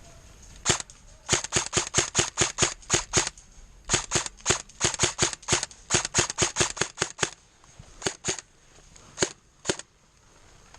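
JG M14 EBR airsoft electric gun firing sharp shots. A single shot comes first, then two long rapid strings of about six or seven shots a second, then a few scattered single shots near the end as the magazine runs down.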